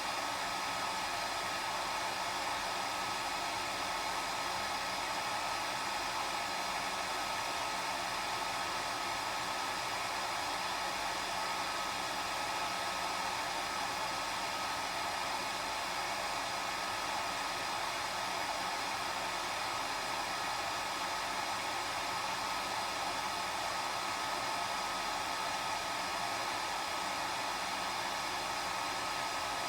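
Electric hair dryer running continuously at a constant speed: a steady rush of air with a thin motor whine over it.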